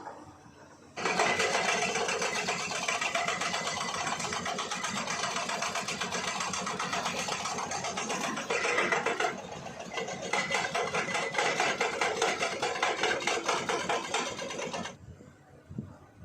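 A machine running with a rapid, even clatter. It starts abruptly about a second in, dips briefly past the middle, and cuts off abruptly near the end.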